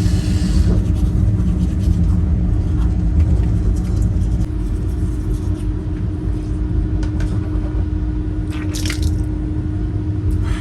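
Electric toothbrush humming with a steady tone while brushing, over the loud low rumble of the moving sleeper train.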